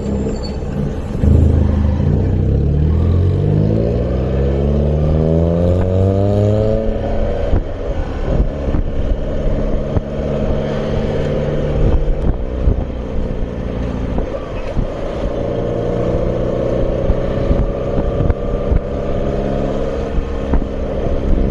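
A vehicle engine revving up, its pitch rising steadily for several seconds about a second in, then running on at a fairly steady speed.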